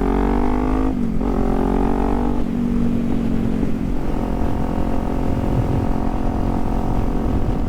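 Kawasaki Z400 parallel-twin motorcycle engine pulling up through the gears: the pitch rises, drops at a shift about a second in, rises again with another shift about two and a half seconds in, then settles to a steady cruise.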